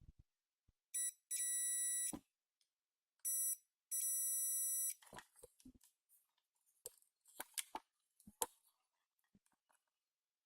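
Multimeter continuity buzzer sounding as the probes touch points on a mobile phone's circuit board: a short beep followed by a longer steady tone, twice, then a few light clicks of probe tips tapping the board. The buzzer sounding means the points are connected, which here marks a short circuit on the board.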